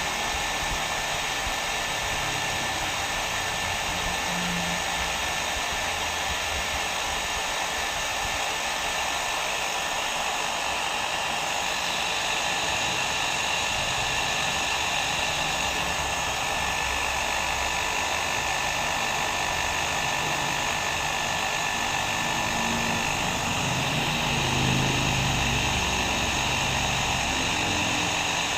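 Hair dryer blowing steadily: a continuous even rush of air with a faint high whine running through it.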